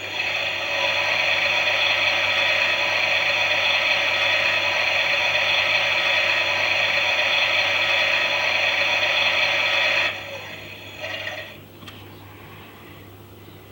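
Klein toy Miele washing machine's small battery motor turning the drum through its plastic gears, a steady geared whir that stops about ten seconds in, with a couple of brief sputters as it winds down.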